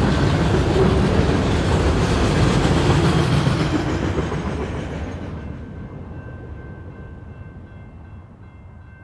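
The rear of a freight train of autorack cars rolls past, its wheels clattering over the rails. The last car clears about four seconds in, and the sound then fades steadily as the train moves away, leaving a faint thin high whine.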